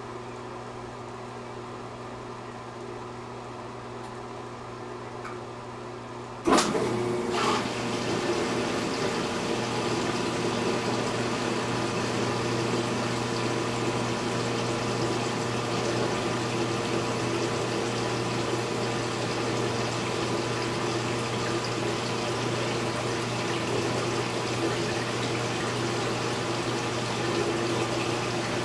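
Speed Queen top-load washing machine humming quietly, then about six and a half seconds in a sharp click as the water valve opens and water starts rushing steadily into the tub to fill it.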